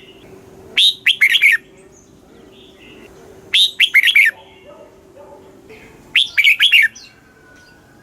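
Red-whiskered bulbul singing: three short, bright phrases of quick whistled notes, each under a second and repeated about every two and a half seconds.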